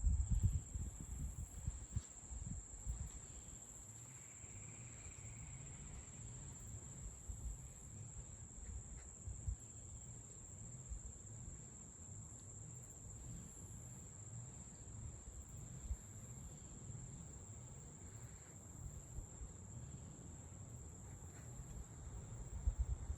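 Insects trilling in one steady, unbroken high-pitched tone, over a low uneven rumble.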